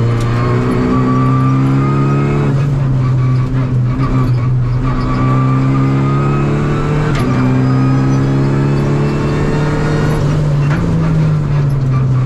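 Renault Clio rally car's engine at full power, heard inside the cabin, its revs climbing and dropping back about four times as it drives flat out through the gears.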